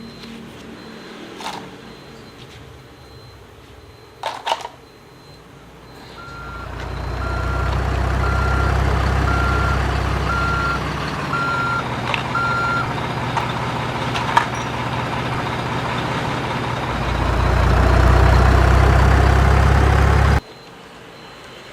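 Truck engine rumble with a reversing alarm beeping eight times, about one beep a second. A few light clicks come before it, and near the end the engine sound swells and then cuts off suddenly.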